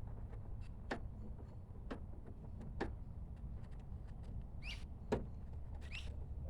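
Scattered sharp clicks and knocks of a car door's handle and latch linkage being worked by hand, with two short squeaks in the second half.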